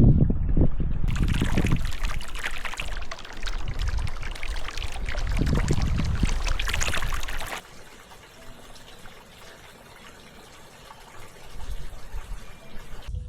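Water pouring and splashing for about six seconds, then cutting off suddenly, leaving a faint trickle. A low wind rumble is on the microphone at the start.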